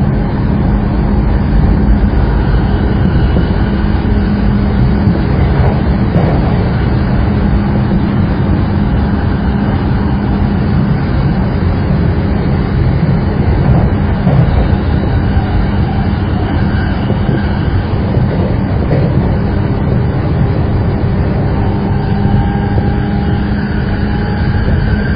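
Saikyo Line commuter rapid electric train running steadily along the line: a continuous loud rumble of wheels on rail with a steady low hum.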